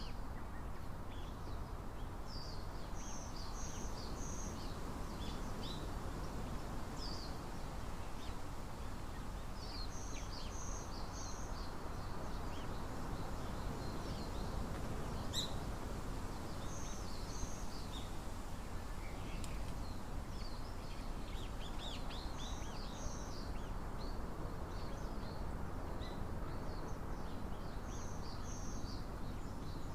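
Small songbirds calling outdoors: a short phrase of two or three high notes repeats about every six seconds, with scattered high chips between. Under them runs a steady low hiss of outdoor background noise.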